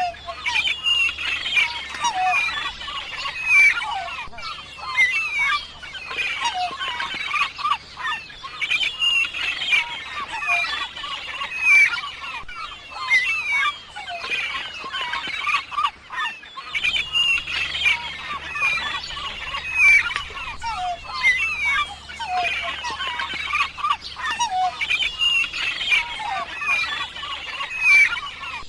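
A flock of birds calling: many short calls overlapping in a steady, busy chorus.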